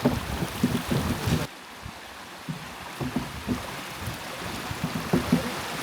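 Aboard a moving river boat: water rushing along the hull and wind buffeting the microphone, with an abrupt drop to a quieter stretch about a second and a half in.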